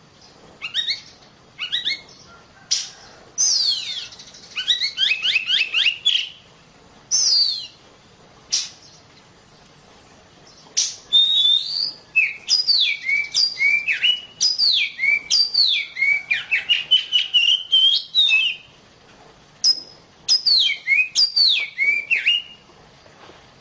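A female Oriental magpie-robin (kacer) in breeding condition singing clear whistled phrases. The notes slide mostly downward and come in quick runs, in four bouts with short pauses between them. This is the mating-ready female song used as a lure to rouse male kacer.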